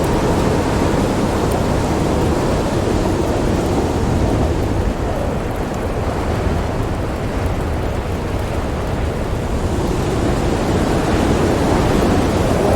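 Howling storm wind, a dense steady rush that eases off a little midway and swells again near the end.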